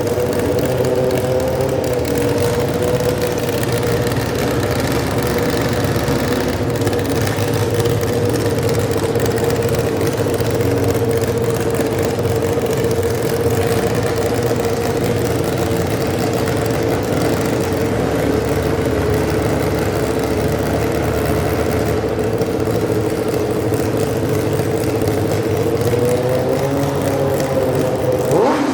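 Garden tractor engine running loud and steady, holding one pitch for most of the time. Near the end its pitch rises a little, then drops sharply and picks back up.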